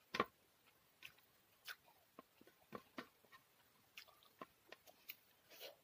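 A person chewing and biting food eaten by hand, picked up close by a clip-on microphone: faint, scattered wet clicks of chewing, one or two a second, with a louder click just after the start.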